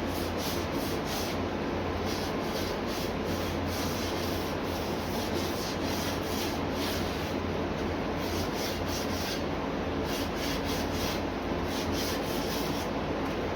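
Sandpaper rubbed back and forth over a metal car air cleaner, roughing up the surface so that paint will grip. The rasping strokes come about three a second, in runs with short pauses between them.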